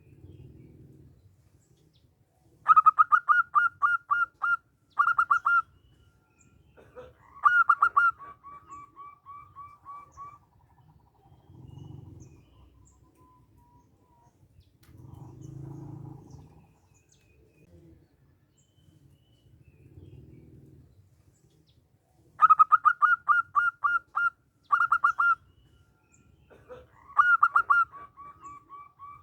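Local zebra dove (perkutut) singing its stuttering cooing song twice. Each time it gives a quick run of loud staccato notes, then a phrase that trails off into a rapid series of softer notes.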